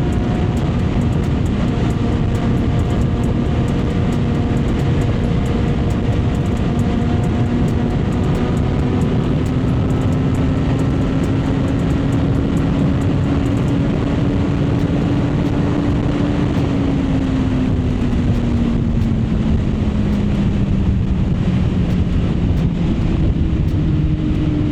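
Kawasaki Z900's inline-four engine at a steady cruise under heavy wind rush. The engine note climbs slowly, then falls away after about sixteen seconds as the bike eases off.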